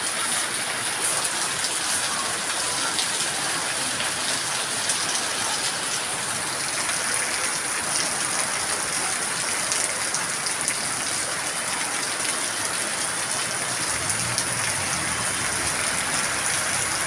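Torrential rain: a steady hiss of heavy rainfall, dotted with many small drop ticks.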